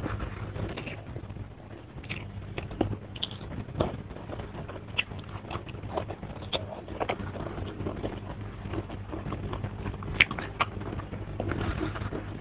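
Close-miked mouth sounds of a person eating: wet chewing and smacking, with many sharp irregular clicks, over a low steady hum.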